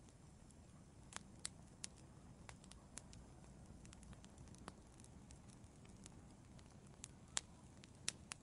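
Wood fire in an outdoor fireplace crackling softly: scattered sharp pops and snaps over a low, steady rumble of burning, with the loudest pops near the end.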